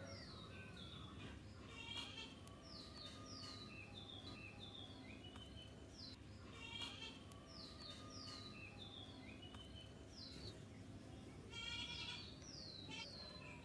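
Small birds chirping and twittering over and over, short high falling chirps mixed with quick chattering trills, over a faint steady low hum.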